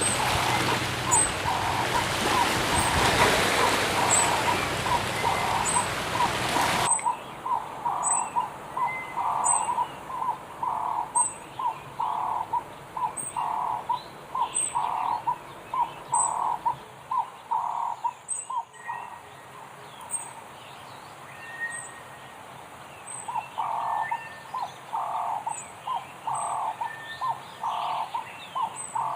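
Birds calling: a repeated short low note about twice a second, with a brief pause past the middle, over high thin chirps about once a second. A hiss of background noise underlies the first several seconds and cuts off abruptly.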